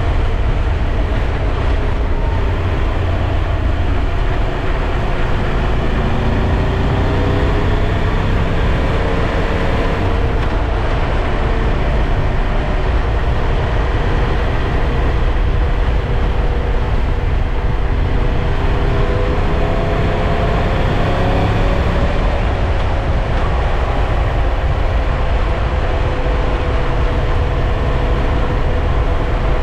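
Triumph Tiger 1200 Rally Pro's three-cylinder engine running while riding, under a steady, heavy rumble of wind and road noise. The engine note drifts gently up and down with speed.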